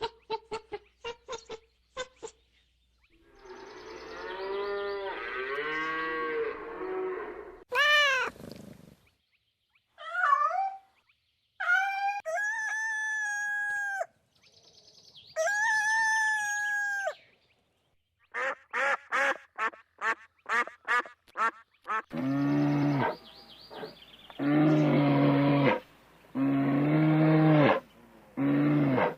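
A series of different animal calls, one after another with short pauses: quick clicks at first, then several drawn-out calls, a fast run of short pulses, and near the end four long, deep calls in a row.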